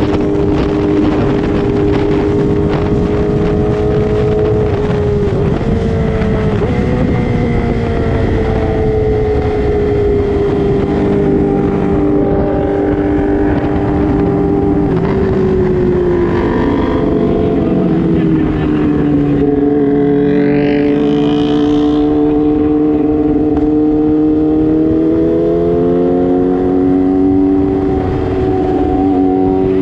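A sport motorcycle engine running at steady high revs with a rush of wind. The engine note eases down slowly through the middle and climbs again near the end.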